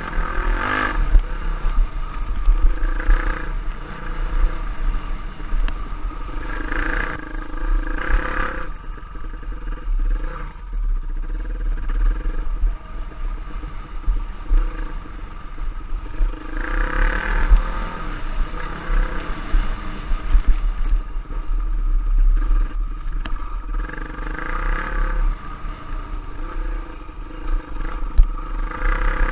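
Trail motorbike engine revving up and down again and again as it is ridden off-road, with a steady low rumble of wind buffeting the microphone.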